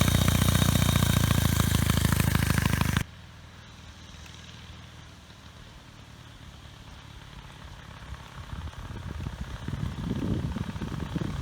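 1920 Douglas W20 2¾ hp flat-twin motorcycle engine running loud and close with rapid firing, cutting off abruptly about three seconds in. After that the motorcycle is heard faintly as a low rumble that grows louder near the end.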